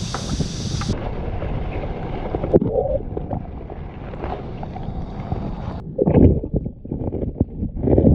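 Wind buffeting the microphone: a steady low rumble, with two louder gusts about six and eight seconds in.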